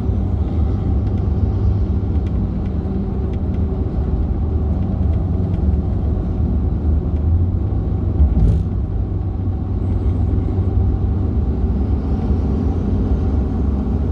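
Truck cruising at highway speed: a steady engine and road rumble, with one brief knock about eight and a half seconds in.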